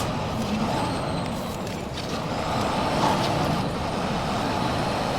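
Semi truck's diesel engine running steadily with a constant noise.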